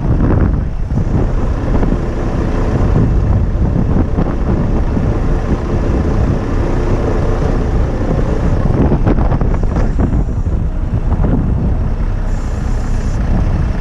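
Mitsubishi Fuso crane truck's engine running steadily, under strong wind buffeting the microphone.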